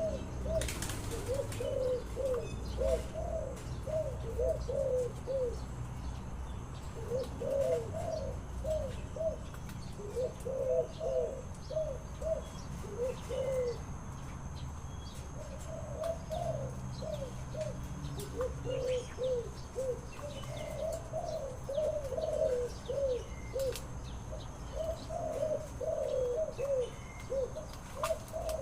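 Spotted dove (tekukur) cooing: repeated phrases of several quick coos, about one phrase every two to three seconds. A young bird, its neck spots not yet fully filled in, singing the double-phrased 'guk-guk' song prized by Indonesian dove keepers.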